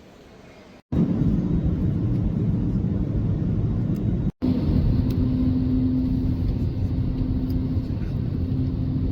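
Loud, steady low vehicle rumble with a constant hum, starting abruptly about a second in and briefly cut out once near the middle.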